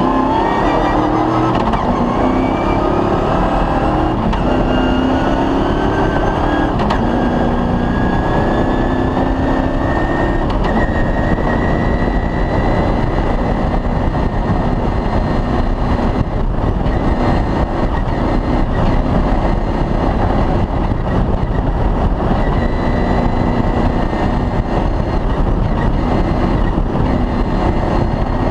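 Off-road rally vehicle's engine running hard at speed, its pitch climbing slowly over the first dozen seconds and then holding steady, over a constant loud noisy rush from the vehicle's travel.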